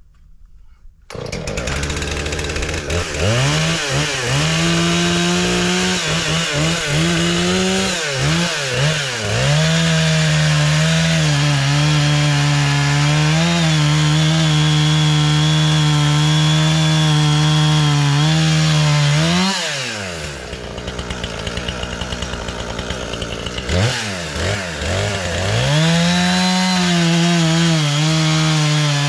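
Husqvarna 460 Rancher's 60 cc two-stroke chainsaw coming in about a second in and revved up and down several times. It is then held at steady high revs for about ten seconds while sawing through wood, falls back to a lower, quieter run around twenty seconds in, and revs up again into another cut near the end.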